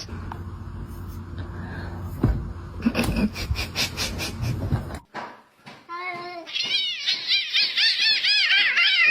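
A cat meowing over and over in quick rising-and-falling calls through the second half, after several seconds of steady background noise with a few knocks.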